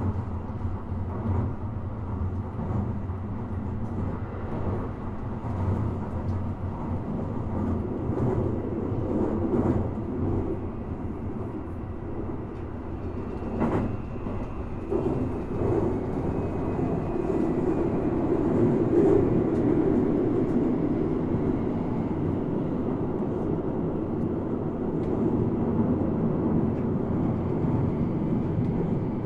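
Onboard running sound of a Toei 5500 series electric train under way between stations: a steady rumble of wheels and running gear heard inside the car. There is one sharp click a little under halfway through, and the rumble grows somewhat louder in the second half.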